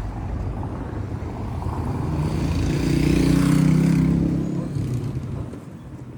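A motor vehicle's engine passing close by: it grows louder, is loudest about three to four seconds in, then fades away.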